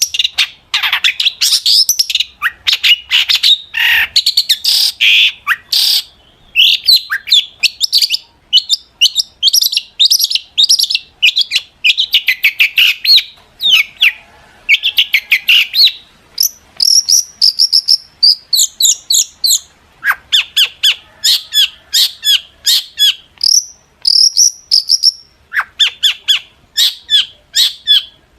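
Long-tailed shrike (cendet) singing a fast, unbroken chatter of short, sharp high notes and trills, several notes a second, broken by a few brief pauses.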